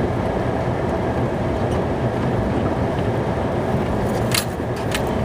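Plow truck's engine and cab noise heard from inside the cab as it drives, a steady rumble with a faint steady whine, and a few sharp clicks about four and a half seconds in.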